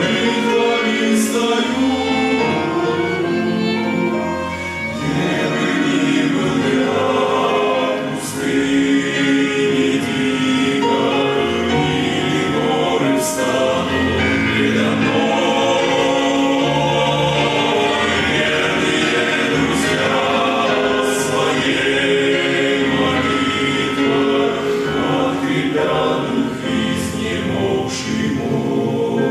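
A men's choir singing a Russian Christian hymn, many voices holding sustained notes together.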